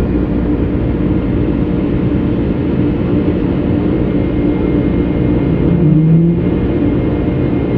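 Steady drone of an airliner's engines and airflow heard inside the cabin in flight, with a steady hum under the noise and a brief stronger low hum about six seconds in.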